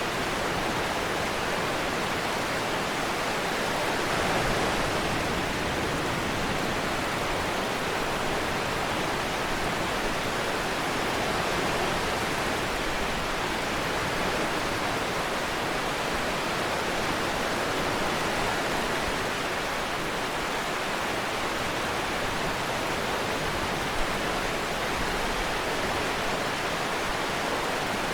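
Steady rainfall mixed with ocean surf, an even hiss that swells gently a couple of times. One brief click sounds near the end.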